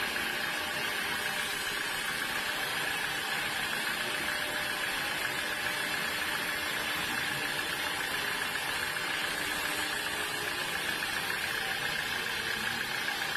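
Sawmill saw running steadily with an even, unchanging hiss and a constant high whine.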